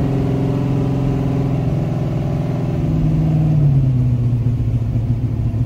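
A race car's engine running at steady low revs, heard from inside the cabin as the car is driven slowly in low gear; its pitch drops slightly about two-thirds of the way through.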